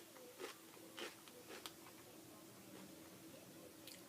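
Faint chewing of a tortilla chip: a few soft crunches over a faint steady room hum, otherwise near silence.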